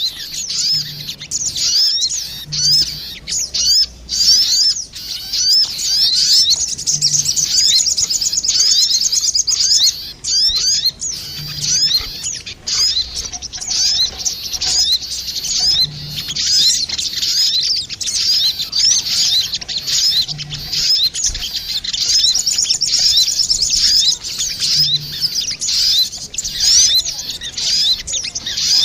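Sogon birds, a female and a male, calling back and forth in dense, rapid high chirps and sweeping notes. This is a lure call of the kind played to draw wild sogon in.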